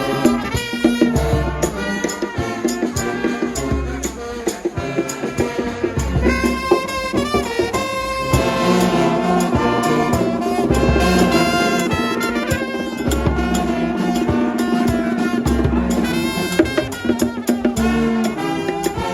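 Music with brass instruments, trumpets and trombones, playing over a steady beat with regular deep drum hits.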